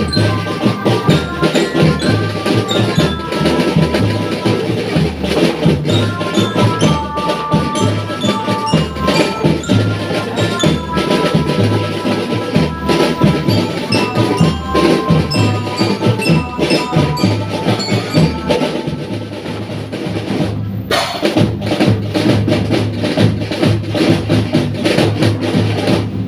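A school marching drum band playing: snare and bass drums beat a steady rhythm under a melody of short, bell-like notes on mallet bells.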